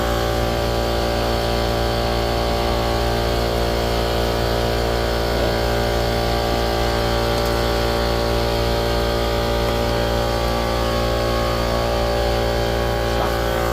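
A motor or engine running steadily, giving a constant hum at an unchanging pitch.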